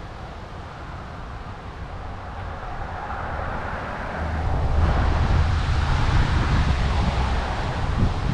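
Strong wind gusting across the action camera's microphone, its buffeting rumble growing louder about four and a half seconds in.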